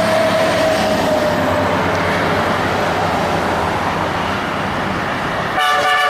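Heavy truck passing with a loud, steady rumble of engine and tyre noise, then a truck horn sounding about five and a half seconds in.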